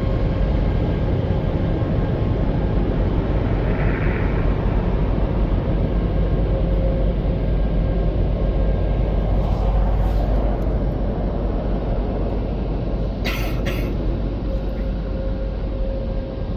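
Car wash tunnel dryer fans blowing air over the car: a loud, steady rush of air with a low rumble and a faint steady hum. Two short sharp hisses come about thirteen seconds in, and the blowing eases off near the end.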